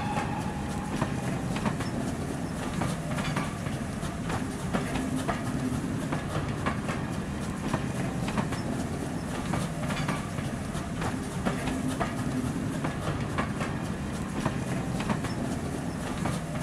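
Railway carriages rolling past close by: a steady rumble that swells and eases every few seconds, with many sharp clicks from the wheels going over rail joints.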